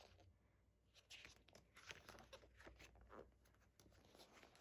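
Faint rustling and light handling of paper, a few short soft strokes, as the pages of a glossy album photo book are handled and turned; otherwise near silence.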